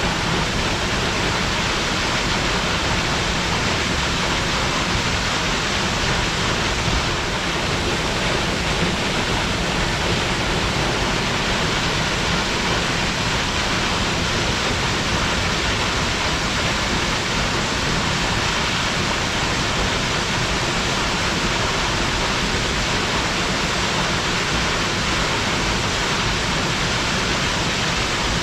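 Waterfall: a steady, loud rush of falling water, with no breaks or changes.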